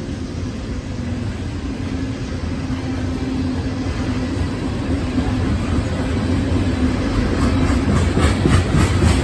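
CSX coal train rolling past, a steady rumble that grows louder, with the wheels clicking rhythmically over the rail joints near the end.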